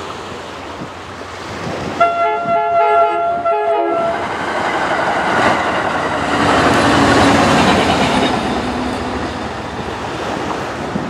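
Passenger train horn sounding several notes at once in a quick run of short blasts lasting about two seconds. The train then passes close by, its rumble and wheel clatter building to a peak and easing off.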